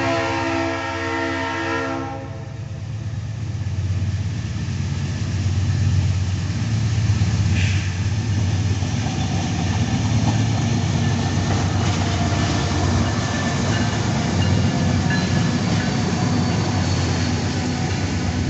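Diesel freight locomotive's horn sounding a chord for about two seconds, then cutting off. The low rumble of two diesel locomotives hauling a loaded freight train then grows louder over a few seconds and holds steady as the train passes.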